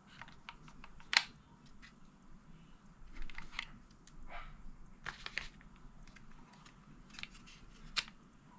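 Scattered light clicks and taps, with two sharper clicks about a second in and near the end.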